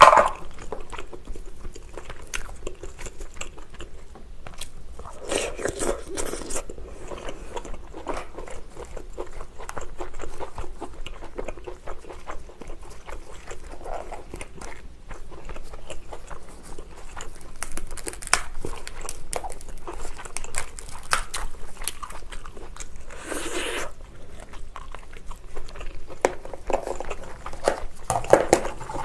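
Someone eating lobster: chewing and crunching, with many small clicks and crackles throughout. There are two longer rustling rushes, about five seconds in and about twenty-three seconds in.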